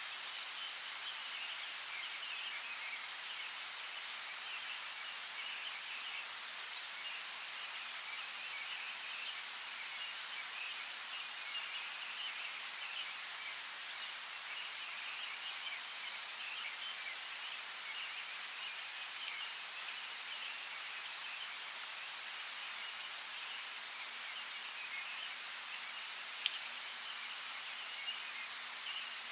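Steady rain falling, an even hiss with a few sharper individual drops, about four seconds in, ten seconds in and near the end. Birds chirp faintly behind it.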